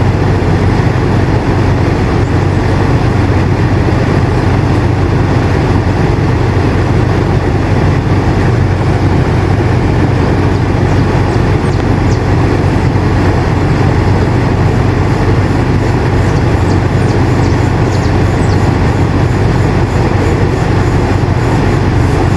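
Air conditioner running steadily: a constant low hum under an even rush of airflow, with a few faint ticks about halfway through.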